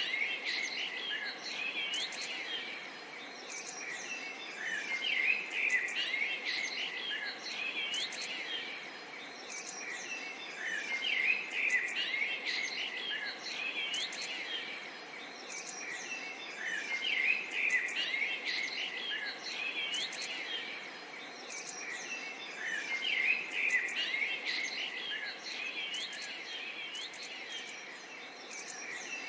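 Songbirds chirping and singing over a steady outdoor hiss: a dense mix of short chirps and quick whistles. The same bird phrases come back about every six seconds, like a repeating loop.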